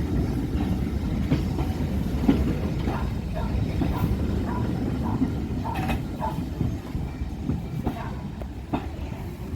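A train running along the track: a steady low rumble with repeated clicks as the wheels pass over rail joints, easing off slightly toward the end.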